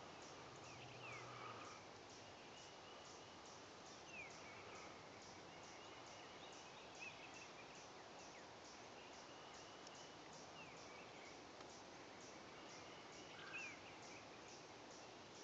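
Quiet woodland, near silence, with a few faint short falling bird whistles spread through it. Underneath runs a faint, even ticking of about two to three ticks a second.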